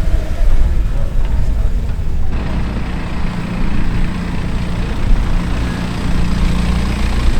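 Car engine running close by with a low, steady note. About two seconds in the sound changes abruptly to a steadier, deeper-toned engine.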